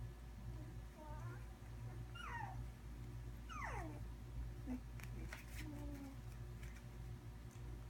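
Three-week-old Labradoodle puppies whimpering: a few short high cries that slide down in pitch, the longest about three and a half seconds in, over a steady low hum.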